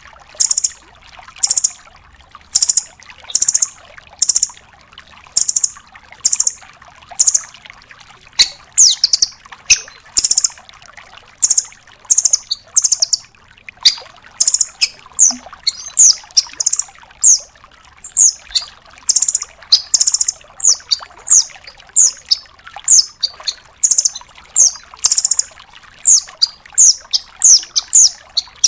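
Velvet-fronted nuthatch (rambatan doraemon) singing a long run of sharp, high, rapid notes in quick clusters, about two clusters a second, some notes sliding down in pitch.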